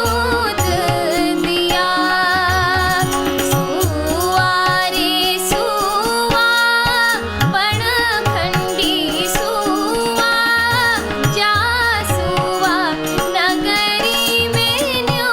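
A woman singing a Kumaoni mangal geet, an auspicious folk song, with ornamented, wavering melody lines, accompanied by a hand drum beating a recurring rhythm of low strokes.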